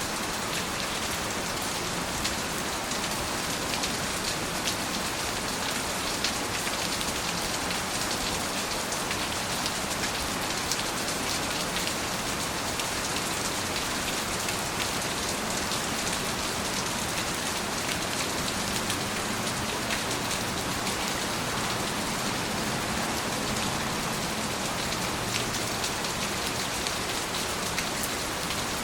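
Steady rain falling, a dense even hiss with many small drop ticks striking a surface.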